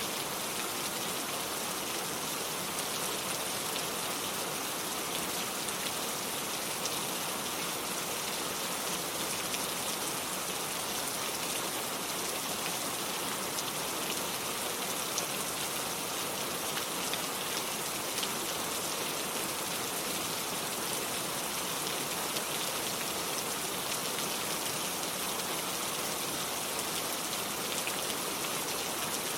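Steady rain falling on cobblestone streets: an even hiss with faint scattered drop ticks.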